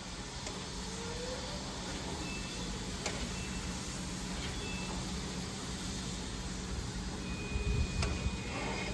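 A vehicle engine running steadily with a low drone, with a few faint clicks and the rumble growing stronger near the end.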